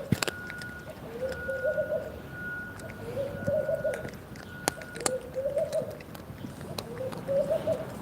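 A dove cooing: four calls about a second long, repeating every couple of seconds, with a few sharp clicks in between.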